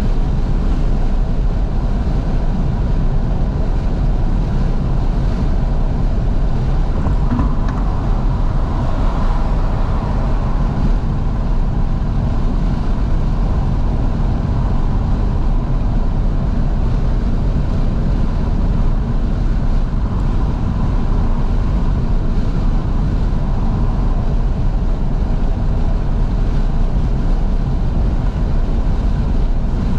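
Steady wind and road noise from a 2012 Fiat 500S driving with its windows fully open, a loud low rumble with the engine running underneath.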